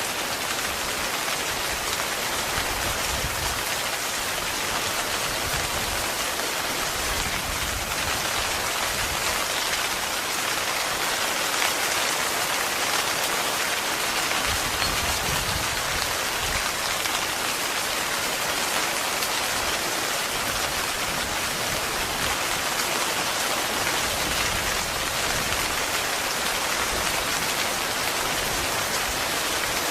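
Heavy rain falling steadily on a tent, an even, dense hiss with no let-up.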